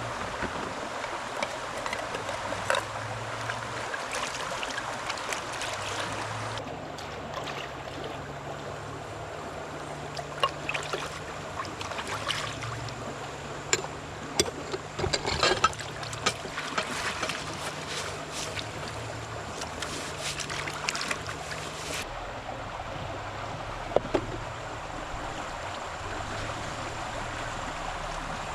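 Steady rush of flowing stream water, with scattered sharp clicks and knocks over it, a cluster of them near the middle.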